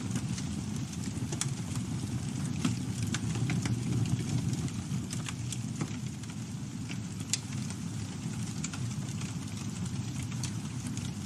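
Campfire burning: a steady low rumble of the flames with scattered sharp crackles and pops from the burning wood.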